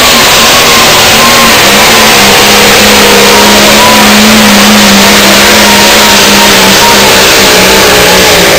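Outlaw-class pulling tractor's engine running flat out during a pull, very loud and steady, its pitch wavering only slightly.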